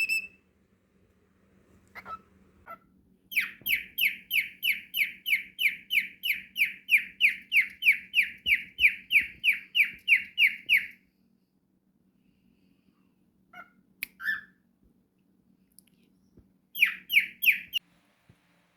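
Cockatiel calling: a long run of rapid repeated chirps, about three to four a second for some seven seconds, then a couple of single chirps and a short burst of the same chirps near the end.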